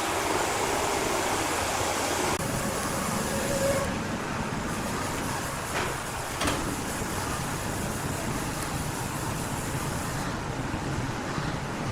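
Wood-cutting saw machinery running, a steady mechanical noise that shifts slightly a few seconds in, with two light knocks around the middle.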